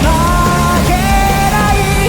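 Live rock band performance playing loudly: a male lead singer holds sustained, sliding melody notes over a dense backing of drums and guitars.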